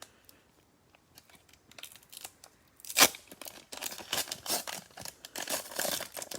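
A plastic cello card-pack wrapper torn open with one sharp rip about three seconds in, followed by steady crinkling of the plastic wrapper.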